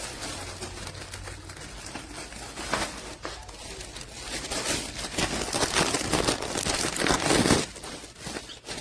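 Crinkling and rustling of plastic packaging and artificial plant leaves being handled, busier and louder in the second half.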